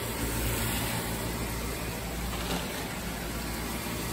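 Steady hiss of ground meat and mushrooms frying in a wok on a hot electric coil burner, over a low steady hum.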